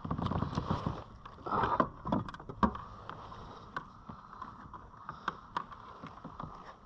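Water splashing and sloshing beside a kayak as a hooked snapper is brought up to the surface, with scattered clicks and knocks. It is busiest in the first three seconds and then settles to a steady hiss with occasional clicks.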